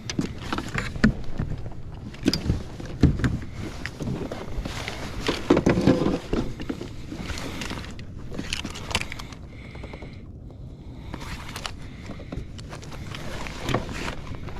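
Irregular knocks, clicks and scrapes of gear being handled against a fishing kayak, busiest in the first half, with a low steady rumble of wind on the microphone.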